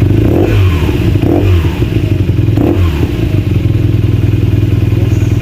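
BMW R nineT's 1170 cc air/oil-cooled boxer twin running in neutral, revved in three quick throttle blips in the first three seconds, then settling back to a steady idle.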